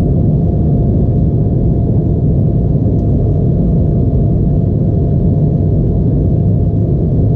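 Steady cabin noise inside an Embraer E175 jet: a loud, even low rumble of its underwing turbofan engines and airflow, with a faint steady hum on top.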